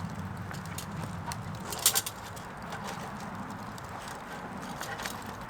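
Wood campfire crackling: scattered sharp pops and clicks over a low steady rumble, with a louder pair of knocks about two seconds in.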